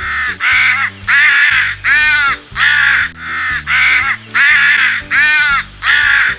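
A crow cawing about ten times in quick succession, each caw harsh and roughly half a second long, over background music with a steady beat.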